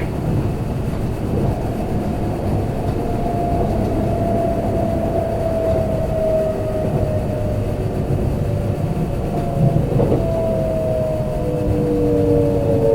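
Kintetsu limited express heard from inside the passenger car: steady wheel and track rumble, with a motor whine that slowly falls in pitch as the train slows on its approach to a station.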